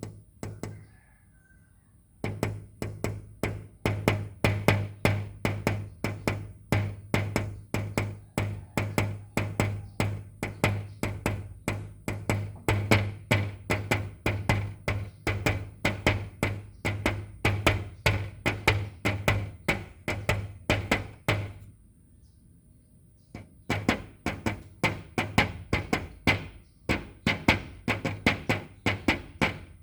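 Fast, even drum-like knocking, about four strikes a second, each with a deep thud under it. It starts about two seconds in and breaks off briefly about three quarters of the way through.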